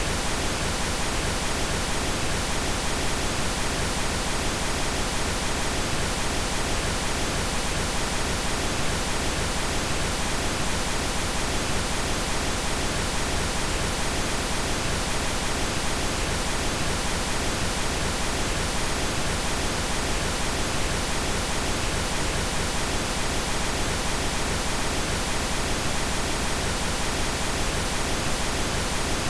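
Steady synthesized pink noise: an even, unchanging hiss with no breaks.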